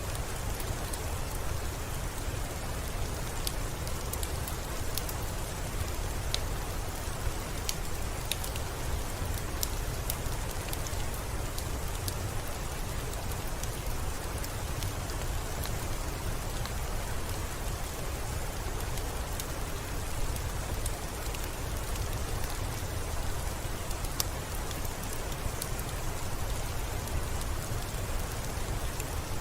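Steady rainfall, an even hiss over a low rumble, with scattered sharp drop ticks.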